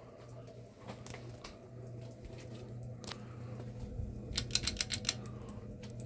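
A 42-inch Sportscast NASCAR ceiling fan's motor humming steadily. A quick run of sharp clicks comes about four and a half seconds in, with scattered single clicks before it.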